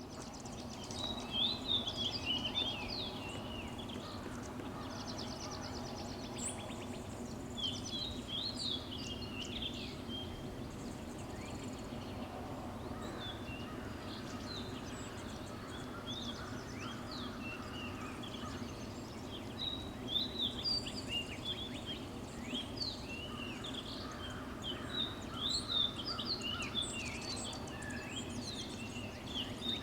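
Birds chirping with many short, quick high chirps and a few fast trills, in bursts near the start, about a third of the way in and again in the last third, over a steady low hum.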